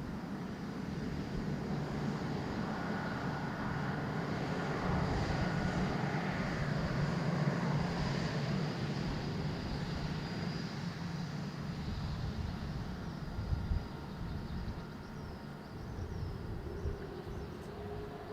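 Jet airliner engines at takeoff power: a rumbling roar that swells to its loudest about seven seconds in and then slowly fades, with a thin high whine over it.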